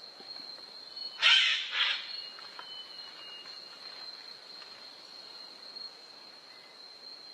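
A bird gives a loud, harsh two-part call about a second in, over the steady high trill of insects.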